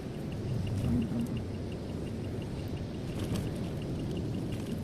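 Steady low engine and road rumble heard inside a car's cabin while driving. A faint, fast, even ticking runs at about six ticks a second for the first half.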